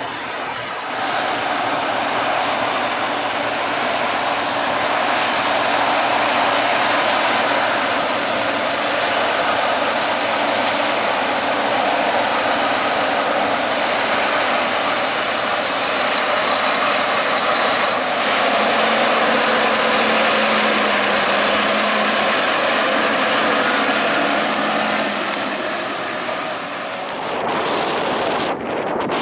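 Heavy farm harvest machinery running steadily, a dense mechanical noise with a faint whine joining in the middle. The sound drops and changes abruptly near the end.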